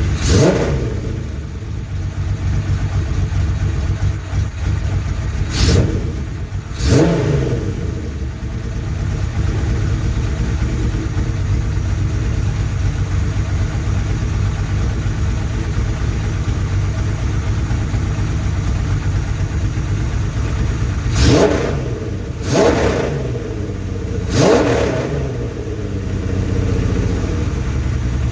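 Six-cylinder Suzuki GS750-based motorcycle engine running through a six-into-one exhaust, just after starting. It idles steadily and is revved in short blips: twice about six seconds in and three more times past the twenty-second mark.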